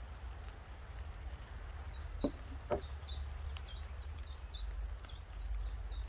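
A small songbird repeating a fast series of short, high chirped notes, about three a second, starting about a second and a half in. Two sharp knocks sound close together a little after two seconds, over a steady low rumble.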